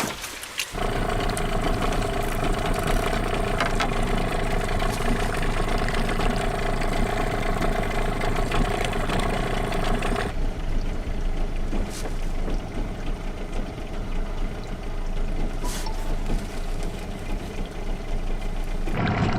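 Boat's outboard motor running steadily, its sound changing abruptly about ten seconds in.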